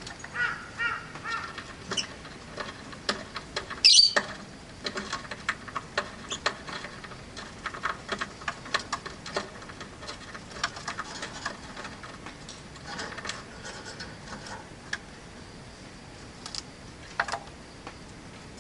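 Rosy-faced lovebirds chirping, with one loud harsh squawk about four seconds in, amid many small clicks and taps.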